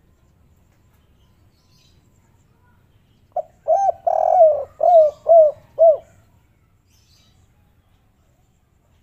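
Spotted dove giving one cooing phrase about three seconds long: a short note, a longer drawn-out coo, then three short coos to close. This is the 'kuk 3' song type.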